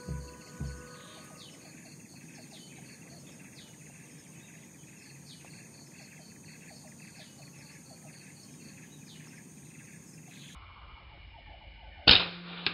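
Birds calling, a short falling high note repeated a little more than once a second over a steady high-pitched whine. Near the end comes a single loud, sharp crack.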